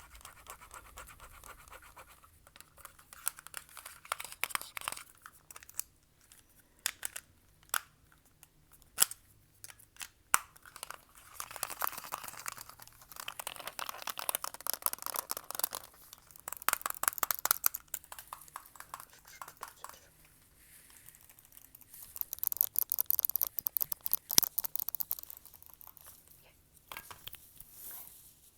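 Fast ASMR tapping, scratching and clicking close to the microphone, in bursts of rapid strokes with short pauses between them and a few single sharper clicks.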